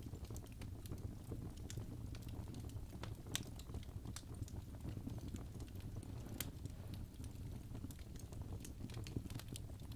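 Wood fire crackling in a fireplace: irregular sharp pops and snaps over a steady low noise of the flames.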